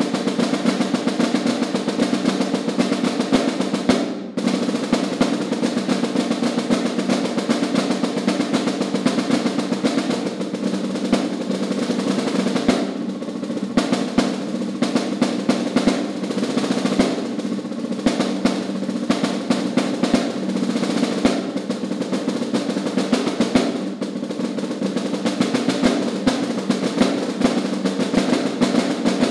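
Solo snare drum played continuously in dense rolls and rapid stick strokes, with a brief break about four seconds in.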